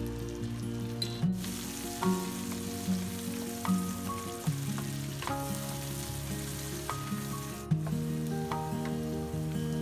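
Food sizzling as it fries in hot oil in a pan, over background music. The sizzle starts suddenly about a second in and cuts off near the end.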